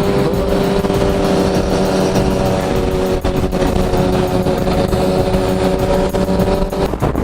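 Yamaha FZ-09's three-cylinder engine running at steady revs while cruising, over a constant rush of road and wind noise. The steady engine note breaks off near the end.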